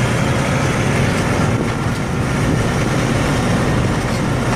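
An engine running steadily, with an even low hum.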